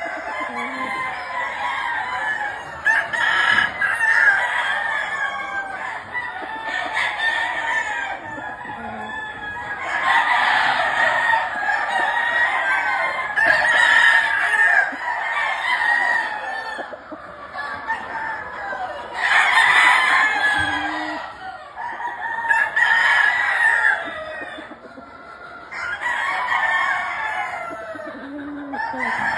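Many gamefowl roosters crowing over one another, with loud waves of crowing every few seconds.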